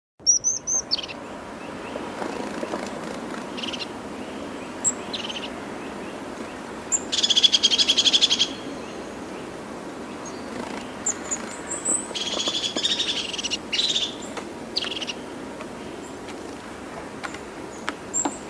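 A bird calling: scattered short high chirps and two longer, louder rattling trills, over steady background noise.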